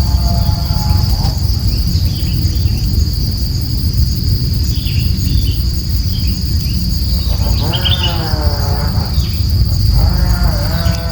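Insects, likely crickets, giving a steady high-pitched trill over a low rumble. Three short wavering calls cut in, one at the start, a longer one about three-quarters of the way in, and one near the end.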